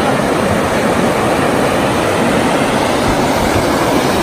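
Steady, loud rushing of whitewater rapids around a river raft.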